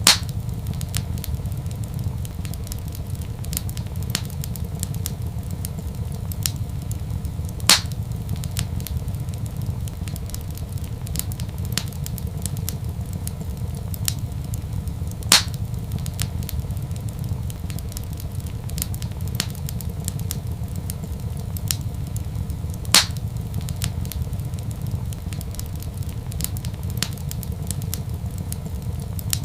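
Wood fire crackling in a fireplace over a steady low rumble, with many small ticks and a louder pop about every seven and a half seconds.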